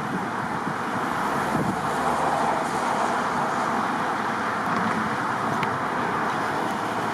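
Steady road-traffic noise, an even rushing hum with no engine note standing out.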